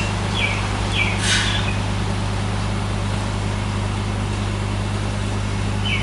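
Heavy construction machinery from nearby sewer works, running as a steady low engine drone that comes in through an open shop door. In the first second there are a few short high chirps, and a brief hiss follows about a second in.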